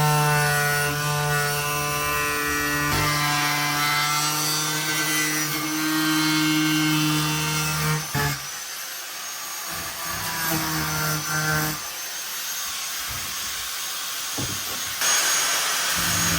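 Angle grinder cutting away fiberglass. Its motor runs at a steady pitch for the first eight seconds, then drops out into a rougher grinding noise, comes back briefly around ten to eleven seconds in, and ends in a harsh hiss near the end.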